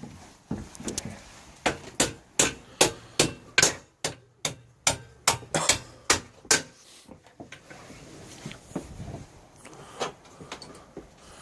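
Hand hammer striking, likely knocking a stuck part on a pocket bike: about a dozen hard blows at two to three a second with a short pause midway, then a few lighter knocks near the end.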